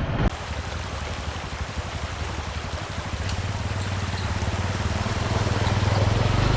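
Motorcycle engine running with a low, rapidly pulsing note that grows louder over the second half, under a steady rushing hiss.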